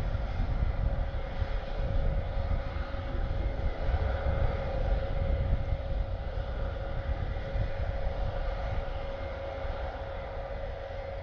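Airbus A400M's four TP400 turboprop engines running steadily at ground idle: a constant drone with one steady tone through it, before the power is brought up for takeoff.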